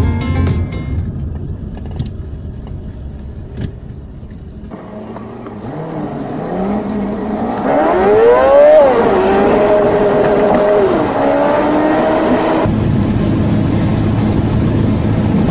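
Car engine accelerating: its pitch rises steadily, drops at a gear change about halfway through, holds, then drops again at a second shift a couple of seconds later.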